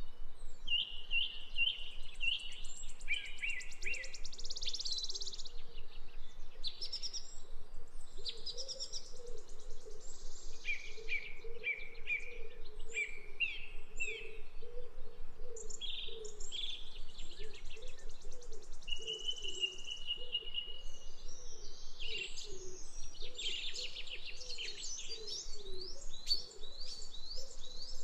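Several songbirds singing and chirping, with overlapping high trills and short repeated phrases throughout, over a low sound that repeats about once a second.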